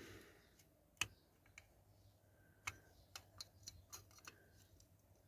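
Faint, scattered clicks and taps of a small tool against a diecast model car body and its plastic parts as a stubborn plastic louver is worked loose, with one sharper click about a second in and a run of lighter ticks in the middle.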